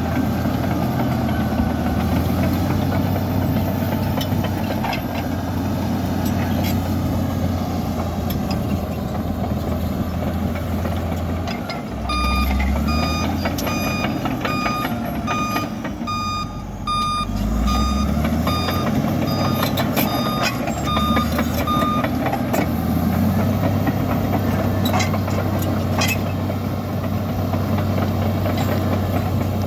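Komatsu bulldozer's diesel engine running steadily. From about a third of the way in, for roughly ten seconds, a reversing alarm beeps about twice a second, the signal that a machine is backing up, with a few knocks over the engine sound.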